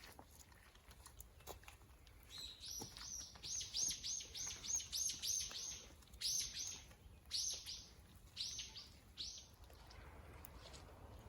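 A songbird singing a quick string of repeated high, arching notes, about three a second, in several runs with short breaks, starting about two seconds in and stopping shortly before the end.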